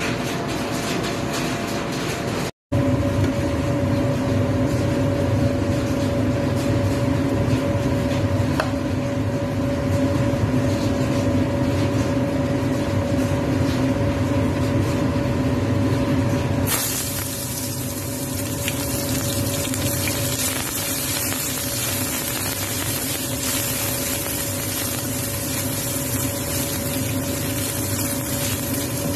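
A steady machine hum with a constant mid-pitched tone, cutting out for an instant near the start. About two-thirds of the way in, sizzling begins as ginger strips go into hot oil in a wok and are stirred with a wooden spatula.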